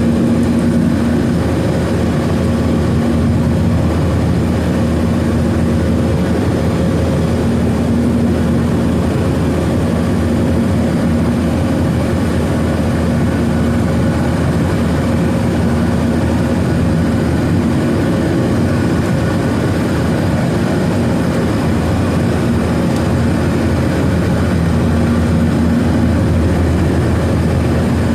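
Steady jet engine and airflow noise heard inside the cabin of a Boeing 737-900ER with CFM56-7B turbofans, an even rush with a faint steady hum underneath.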